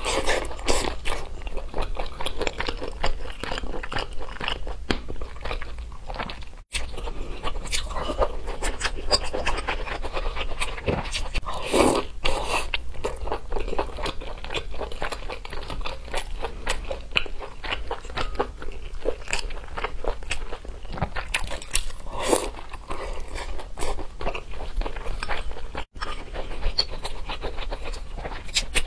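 A person chewing and biting food close to the microphone: a steady stream of many small mouth clicks and smacks. The sound cuts out for an instant twice.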